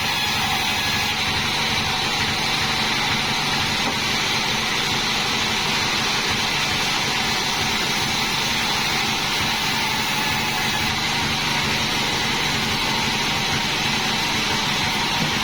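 Homemade band sawmill running steadily, an even, unbroken machine noise with a low hum underneath.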